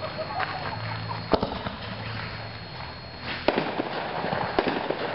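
Double-break 'double bomb' artillery shell fireworks going off: a sharp bang about a second and a half in, then two more bangs about a second apart near the end, with lighter crackling between them.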